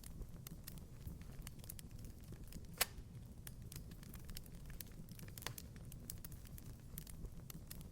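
Wood fire crackling in a fireplace: irregular sharp pops and snaps, one louder pop about three seconds in, over a low steady rumble.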